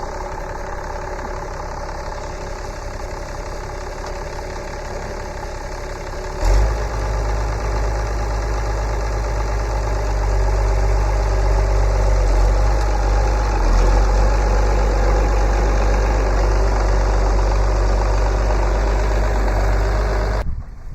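Tractor engine idling steadily. About six seconds in there is a sharp knock and the engine sound becomes louder and deeper, and a little louder again a few seconds later. The sound cuts off abruptly near the end.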